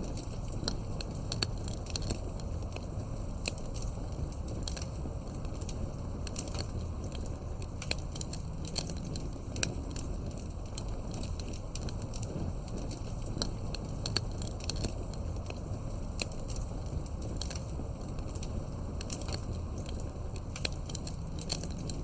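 Campfire crackling: frequent, irregular sharp pops and snaps over a low, steady rumble.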